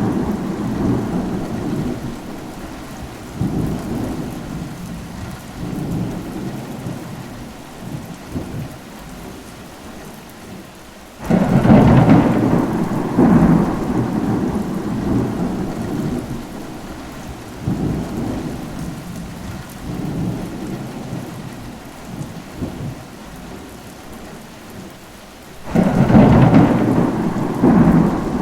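Thunderstorm: steady rain under rolling thunder. Two sudden loud thunderclaps, about 11 seconds in and again near the end, each break into rumbling that swells and fades over several seconds.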